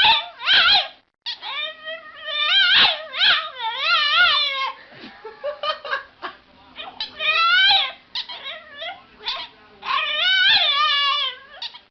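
A dog howling and whining in a string of long, high, wavering cries that rise and fall in pitch, with short gaps between them.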